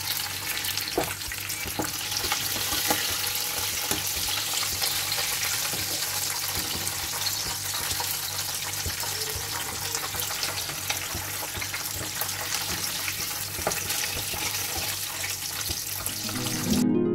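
Breaded chicken pieces deep-frying in hot oil in a pan: a steady sizzling hiss, broken by a few sharp clicks.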